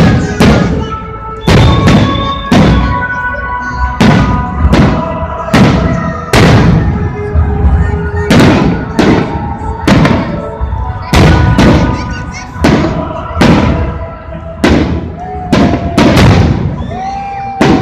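Fireworks salute: aerial shells bursting in quick succession, about one a second, each a sharp bang. Steady tones run underneath.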